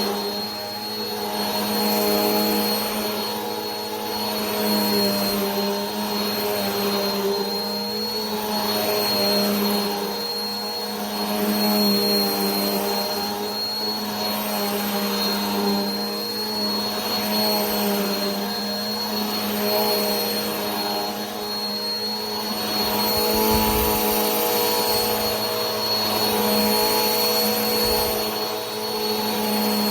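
Vacuum cleaner motor running continuously: a low hum with a thin high whine over a steady rush of air. The sound swells and eases every couple of seconds.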